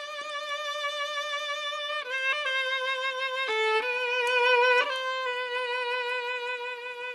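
Violin playing a slow melody one note at a time, with long held notes and a marked vibrato that step downward and back up over the seconds.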